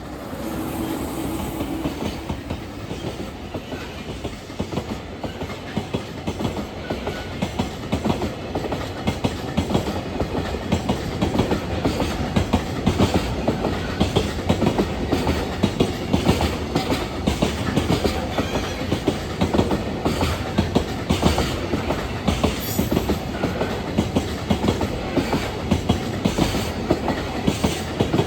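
A train running along the track close by, its wheels knocking out a steady clickety-clack over the rail joints under a continuous rumble. The sound builds over the first several seconds, then holds for the rest of the passage.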